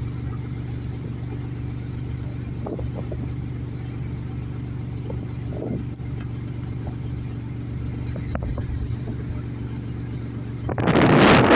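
A vehicle engine idling with a steady hum, with faint gusts of wind. Near the end a loud rush of wind hits the microphone.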